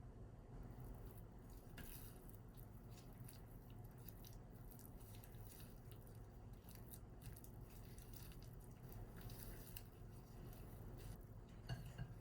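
Faint kitchen prep sounds while working cookie dough: scattered light clicks and soft squishing over a low steady hum, with a slightly louder cluster of clicks near the end.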